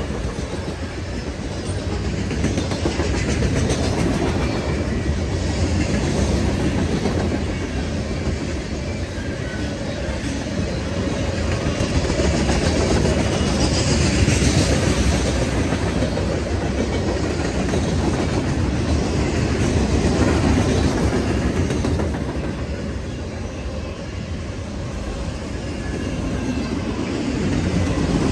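Train cars rolling past on the rails, a continuous rumble of wheels with clickety-clack over the rail joints, swelling and easing in loudness every few seconds.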